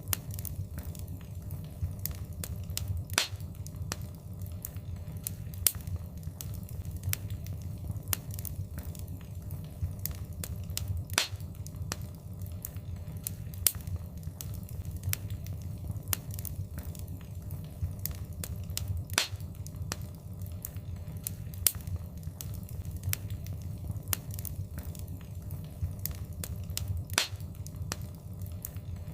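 Wood fire crackling in a fireplace: a steady low rumble of burning with constant small snaps and a sharper pop every two to three seconds.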